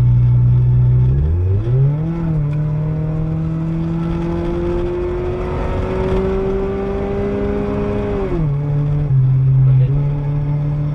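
Car engine heard from inside the cabin: steady running, then the revs rise about a second in and keep climbing slowly as the car accelerates, before dropping back near eight seconds in and settling at a steady pitch.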